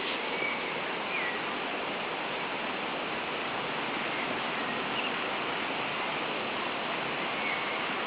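Steady outdoor hiss, like wind or rushing water, with a few faint, short high chirps of birds scattered through it.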